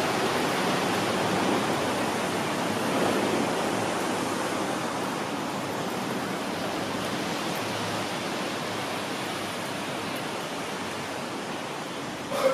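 Seibu 30000-series electric train running away down the track, its running noise a steady hiss that slowly fades as it recedes. A brief knock sounds near the end.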